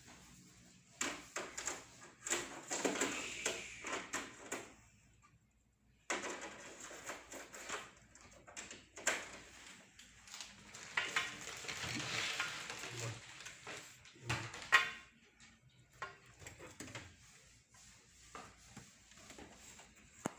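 Indistinct voices mixed with scattered clicks, knocks and clattering of hard objects.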